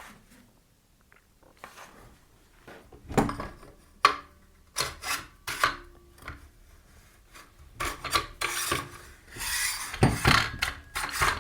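Metal parts of a bench pillar drill being handled and fitted together as the clamp goes over the column tube: scattered knocks and clunks, then a stretch of scraping and rubbing near the end.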